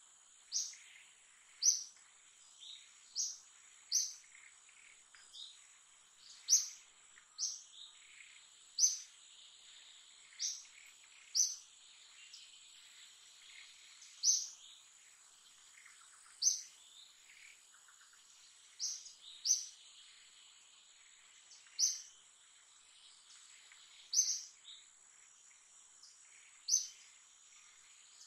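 A bird repeatedly giving short, sharp, high chirps, one every second or two with a few longer pauses, over a steady high-pitched insect drone.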